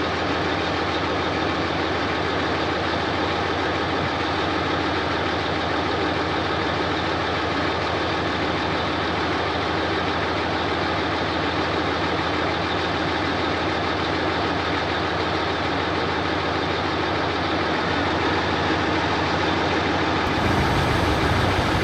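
Heavy diesel engine of earthmoving machinery running steadily. Near the end the sound changes abruptly to a deeper, louder rumble.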